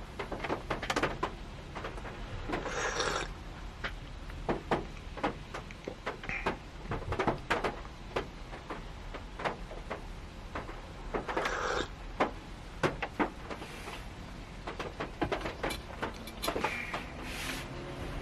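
Rain tapping on the roof of a parked Honda Step Wagon, heard from inside the car: irregular drops and knocks over a low steady patter, with a few brief rustles about three seconds in, near the middle and near the end.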